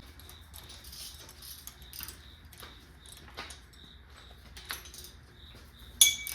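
Small steel washers clinking and rattling as they are picked from a tray and stacked onto bolts, in scattered light clicks, with one sharper ringing clink near the end.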